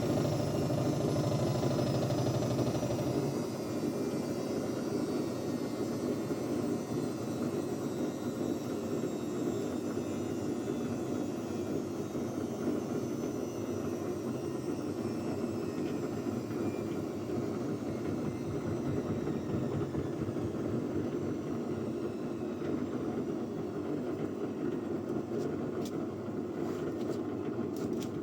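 Washing machine drum winding down at the end of its spin cycle: a steady mechanical running with a high motor whine that slowly falls in pitch, a low hum dropping away about three seconds in, and a few clicks near the end.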